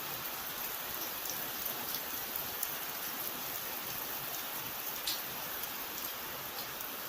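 Steady rain falling, an even hiss with scattered sharp drop ticks, one a little louder about five seconds in.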